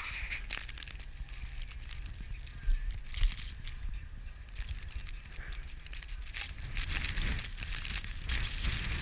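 Blizzard wind rumbling on the microphone, with irregular crackling and crunching throughout and two louder knocks about three seconds in.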